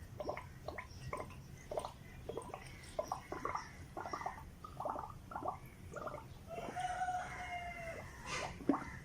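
Fowl calling: a run of short clucks, with one longer drawn-out call about seven seconds in.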